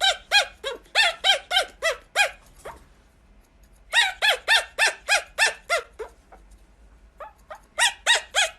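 A bird calling in quick runs of short, squeaky notes, about four a second. Each run lasts about two seconds, broken by brief pauses, and a new run starts near the end.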